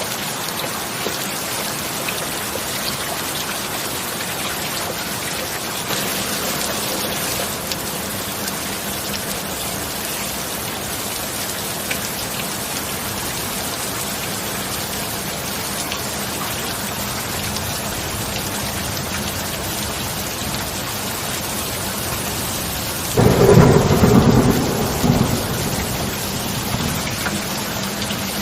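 Steady heavy rain, with a sudden loud crack of thunder near the end that rumbles off over a couple of seconds.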